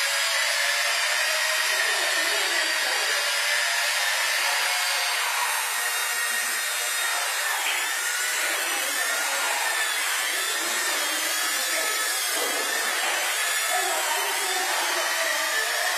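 Small flybarless RC helicopter in flight: the motor and rotor whine steadily, the pitch wavering up and down as the throttle and rotor speed change.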